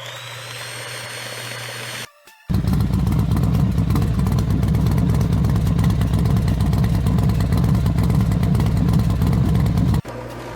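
A high steady whine, then after a short break a loud engine running steadily with a fast low pulse. Near the end it cuts abruptly to a quieter engine hum.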